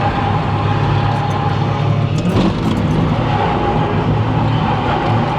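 Drift car engine running hard at high revs on track, with a brief change about two seconds in.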